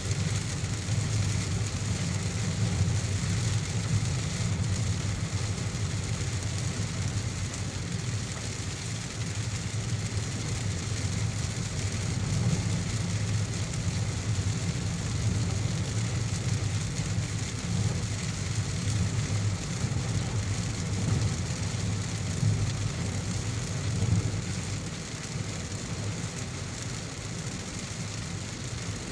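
Car driving in heavy rain: a steady low rumble of engine and road under an even hiss of rain, easing slightly near the end.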